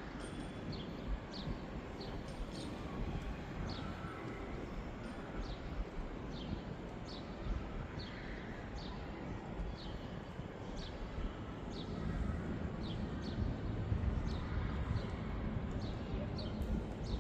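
A bird repeating a short, high, falling chirp, about one to two a second, over a steady low rumble that swells somewhat in the second half.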